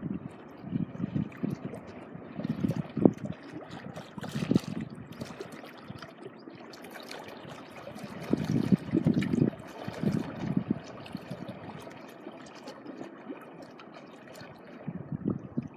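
Small waves lapping and trickling at the shoreline in irregular surges, busier in the first half and again about eight to ten seconds in, calmer toward the end.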